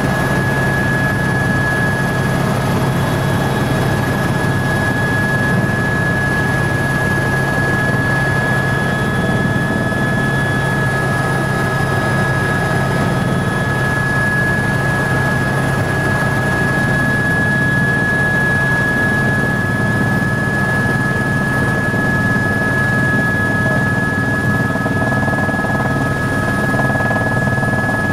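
Tour helicopter running steadily, heard from inside the cabin: a steady high whine over a low drone.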